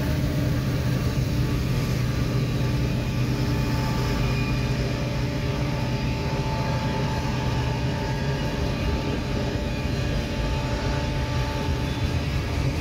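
Freight cars of a mixed manifest train rolling past, a steady rumble of steel wheels on rail. A faint steady whine rises over it about halfway through.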